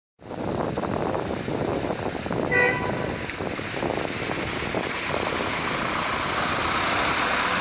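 Vehicles driving along a flooded street, a steady rushing noise of engines and tyres in water. A short horn toot sounds about two and a half seconds in.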